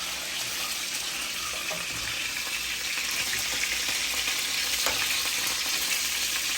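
Seasoned chicken pieces frying in hot oil, a steady sizzling hiss.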